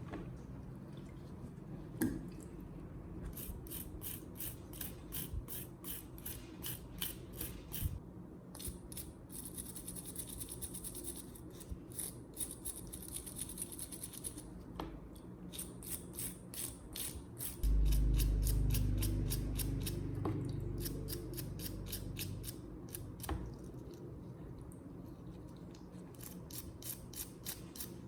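Rhythmic hand scraping or rubbing strokes on a rusty metal part, about three a second, in several runs with a steadier hiss between them. About two thirds of the way in, a sudden low thud, the loudest sound, with a low rumble that fades over several seconds.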